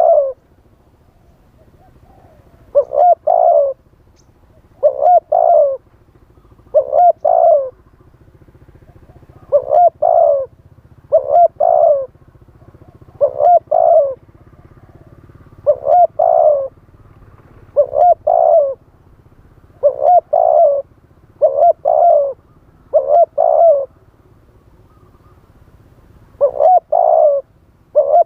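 Spotted dove cooing: a short phrase of two or three coo notes, repeated every couple of seconds, over a faint low background rumble.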